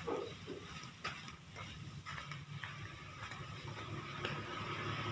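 Scattered clicks and knocks over a steady low mechanical hum.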